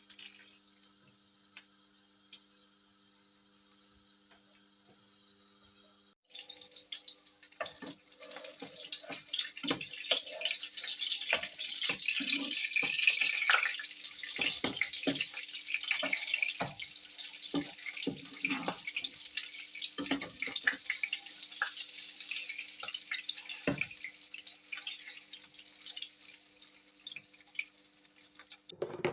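Water running from a tap into a sink, starting abruptly about six seconds in, with scattered knocks and clatter against it.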